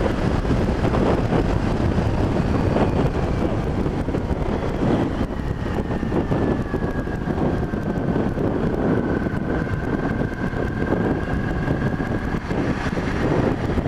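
Wind rushing over a helmet-mounted microphone while riding a motorcycle, with the engine underneath. Through the middle a faint whine slowly drops in pitch as the bike eases off.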